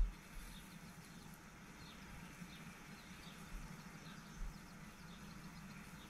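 Faint outdoor ambience: a small bird gives short high chirps again and again, over a steady low hum, with a few soft low thumps.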